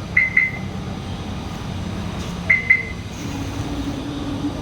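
Two pairs of short high-pitched electronic beeps, one pair right at the start and another about two and a half seconds in, over a steady low hum.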